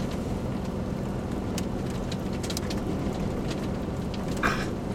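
Rain blowing in through an open vehicle window over a steady low rumble of wind, with scattered sharp drop hits and one short louder rush about four and a half seconds in.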